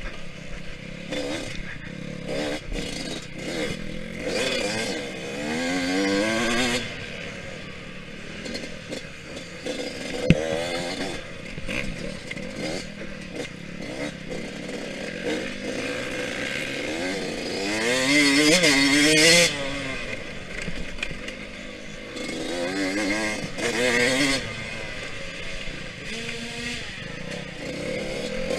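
Yamaha YZ125X two-stroke 125 dirt bike engine under race riding, revving up and dropping back repeatedly as the throttle is worked, loudest on a long rev about 18 seconds in. A single sharp knock is heard about ten seconds in.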